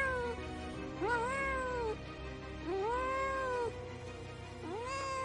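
Cat meowing: a series of long, drawn-out meows, each rising then falling in pitch and about a second long, with a gap of under a second between them, over background music.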